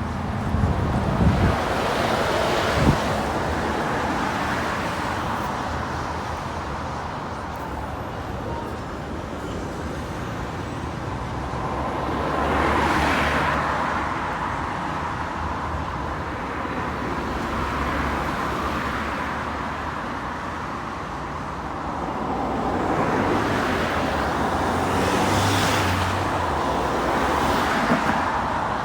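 Road traffic with a steady stream of vehicles passing one after another, each rising and fading as it goes by; the loudest passes come about a third of the way in and near the end, with a few short knocks near the start.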